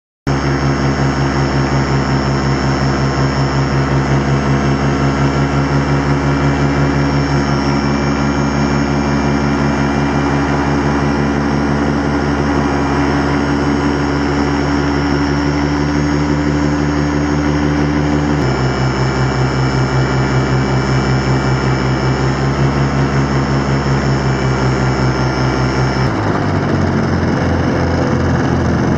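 Miniplane Top 80 paramotor's single-cylinder two-stroke engine and propeller running steadily, its top end freshly rebuilt. The engine note shifts abruptly about eighteen seconds in and again about twenty-six seconds in.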